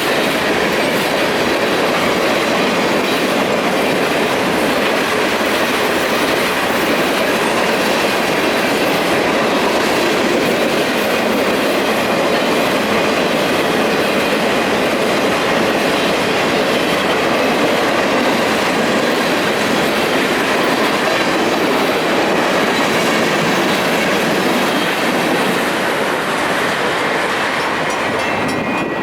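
Freight train rolling past at close range, its cars' wheels clacking over the rails in a steady, loud rumble that eases slightly near the end.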